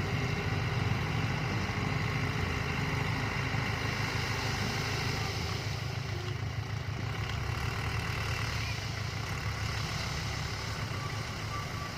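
Dump truck's engine running steadily.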